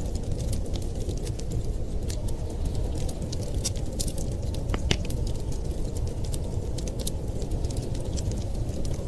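Fireplace crackling, with many small sharp pops and one louder pop about five seconds in, over a steady low rumble of blizzard wind.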